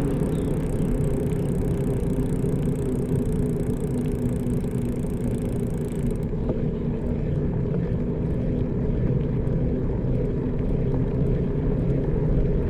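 Steady low rumble with a faint steady hum, from riding along a road: tyre and wind noise with no distinct events.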